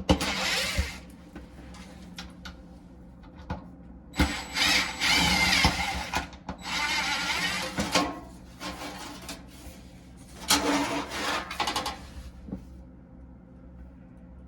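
Power screwdriver or drill running in four short bursts with a wavering whine, taking apart the refrigerator's compressor compartment at the back, with light clicks of handling between the bursts.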